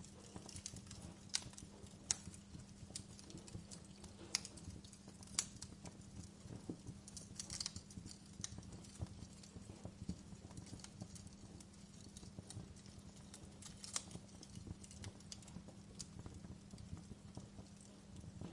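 Wood fire in a fireplace crackling: irregular sharp pops and snaps at uneven intervals over a low steady hum.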